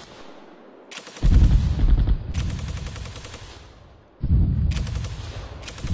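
Bursts of automatic gunfire, rapid shots echoing among trees: one long burst starts about a second in and fades, and another starts just after four seconds.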